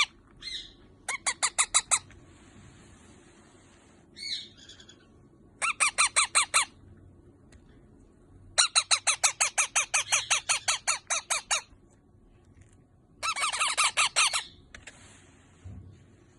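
Yellow parrot chicks calling in bursts of short, quickly repeated calls, about eight a second. There are four main bouts of one to three seconds each, with pauses between; the longest comes about halfway through.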